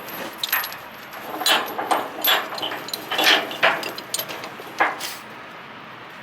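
Steel tie-down chain clinking and rattling in a run of irregular metallic clanks as it is handled.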